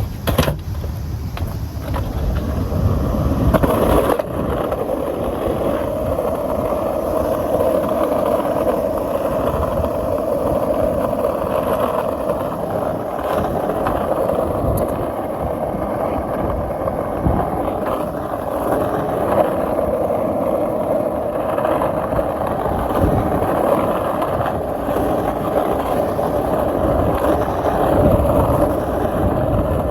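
Skateboard wheels rolling on pavement: a steady rumble, with sharp clacks just after the start and about four seconds in.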